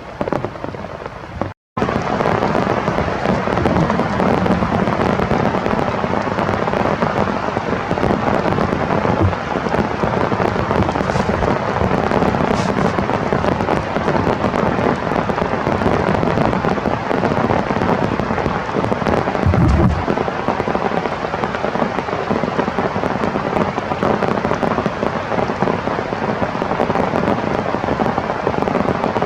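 Heavy rain falling steadily, a dense crackling patter of drops. The sound cuts out for a moment about two seconds in, then carries on unchanged.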